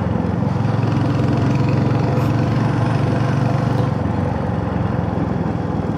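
Royal Enfield Hunter 350's single-cylinder engine running under way, a steady low exhaust thump. It eases off a little about four seconds in.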